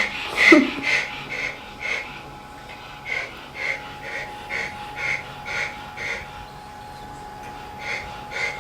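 Quick, rhythmic wheezy breaths or snorts, about two a second, over a faint steady hum.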